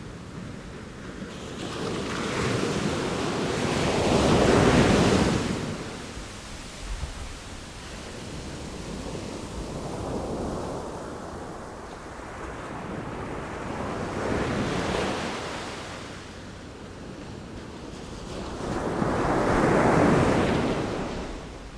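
Sea waves breaking and washing ashore in slow swells, the loudest surges about 5 seconds in and near the end, with a steady wind rush underneath.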